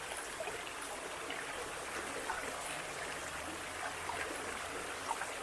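Steady rush of a fast mountain stream, with no beat or tone in it.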